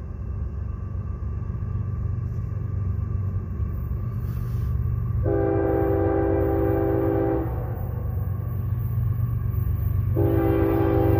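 Approaching Union Pacific freight train's diesel locomotives rumbling steadily and growing louder. The locomotive air horn sounds twice: a long blast about five seconds in, and another that starts near the end.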